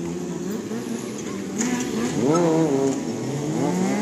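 Stunt sportbike engine revving: the revs climb sharply about two seconds in, drop back, and rise again near the end.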